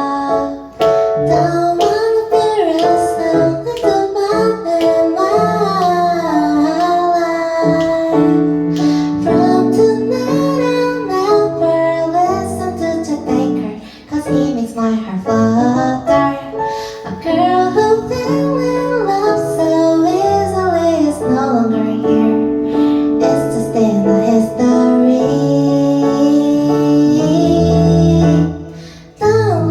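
A woman singing a slow song live over keyboard accompaniment, her melody gliding over sustained chords, with brief breaks about halfway through and near the end.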